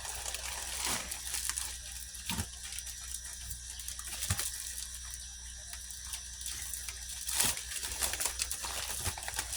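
Intermittent rustling, crinkling and handling clicks of packing material and animal bags being taken out of a shipping box, with a steady low hum underneath.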